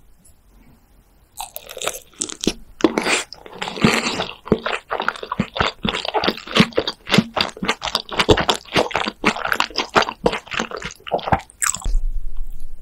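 Close-miked chewing of fried potatoes coated in a thick creamy sauce: a fast, dense run of crisp crackles and wet chews that starts about a second and a half in and stops just before the end.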